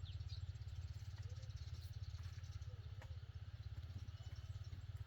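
A small engine running steadily with a fast, even throb, while birds chirp a few times.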